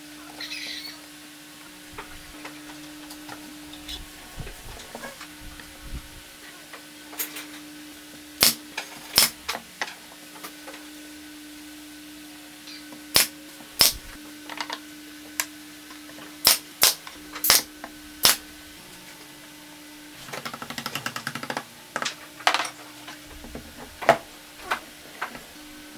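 Sharp, irregular knocks and taps of hand-tool work on wood, some single and some in quick pairs, over a steady low hum; about 20 seconds in, a short rattling run of rapid clicks.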